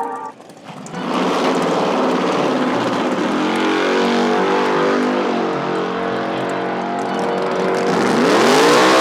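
A car engine running loudly with its revs wavering, then climbing sharply near the end as it accelerates.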